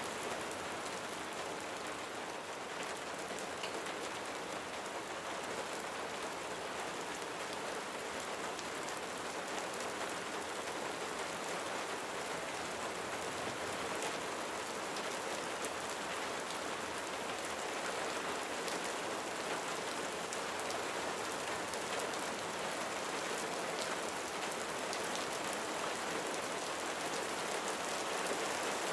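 Steady rain falling on a roof, an even hiss with many small drop ticks through it and no thunder.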